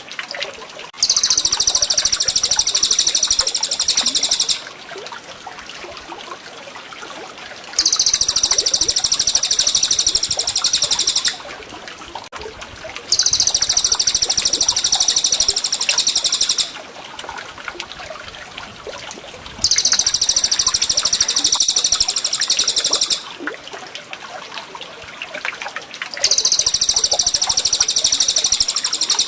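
Looped songbird training recording: a rapid, high-pitched trilling song in five bursts of about three and a half seconds each, repeating roughly every six seconds, over steady trickling water.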